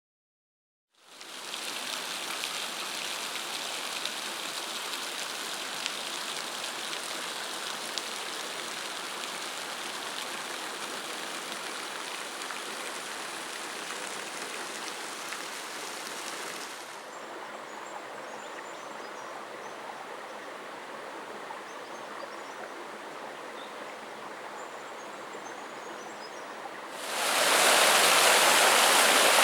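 Waterfall and stream water rushing steadily, starting about a second in; the rush drops to a quieter, duller level partway through and then turns much louder near the end.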